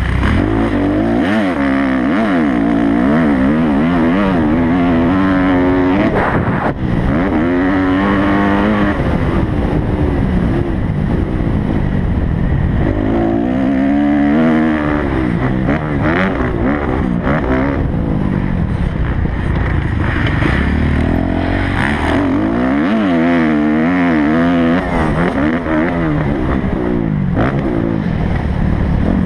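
Kawasaki motocross bike's engine running hard, its pitch rising and falling again and again as the throttle is opened and closed through the gears, over a steady rush of wind and track noise.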